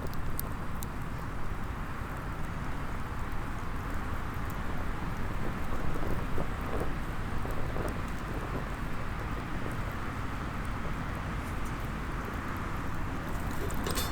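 Small wood fire in a mini fire pit, crackling with occasional sharp pops over a steady low rumbling background.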